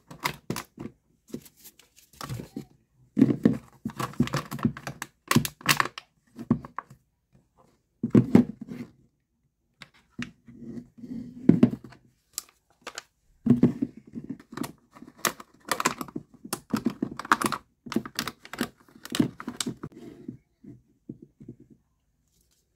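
Cups being pushed through holes cut in cardboard and the cardboard handled on a bucket: irregular scraping, crinkling and tearing of cardboard with occasional knocks, in short clusters with brief pauses.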